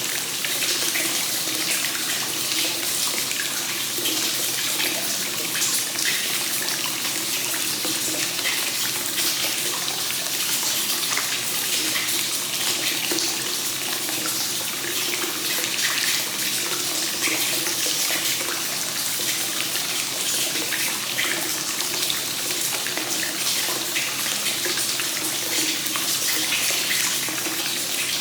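Hot spring water flowing continuously into a bath, a steady splashing rush of pouring water.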